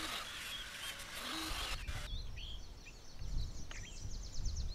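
A steady hiss that cuts off suddenly about two seconds in. After it, small birds chirp and sing in short rising and falling notes over a low rumble.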